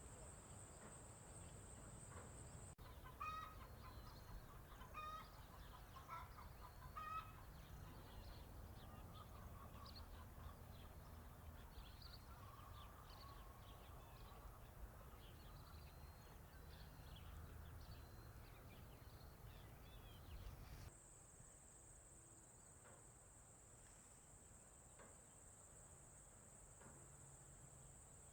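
Chickens clucking in a run of short calls, with many small high bird chirps around them. A steady high cricket trill plays at the start, cuts out suddenly a few seconds in, and comes back just as suddenly near the end.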